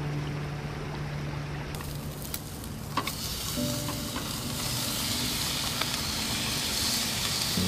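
Food sizzling in hot oil in a pan, a steady hiss that grows louder about three seconds in, with a few crackles, over soft sustained background music.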